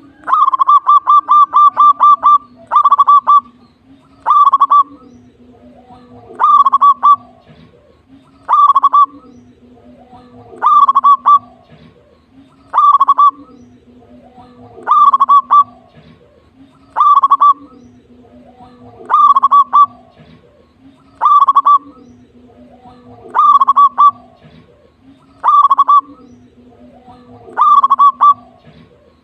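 Zebra dove (perkutut) cooing loudly: an opening run of about eight quick notes, then short bursts of rapid notes repeated about every two seconds.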